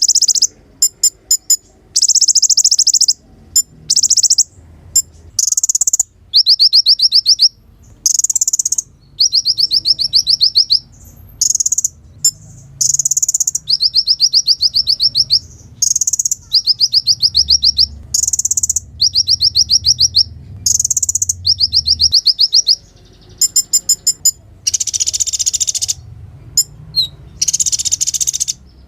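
Kolibri ninja (konin) sunbird singing loud, high-pitched bursts of rapid trilled twittering, one phrase after another with short pauses between. Near the end the phrases turn harsher and buzzier.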